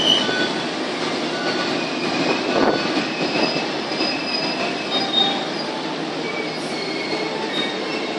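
Passenger train coaches rolling slowly along a station platform: a steady rumble of wheels on rail, with short thin high-pitched squeals that come and go.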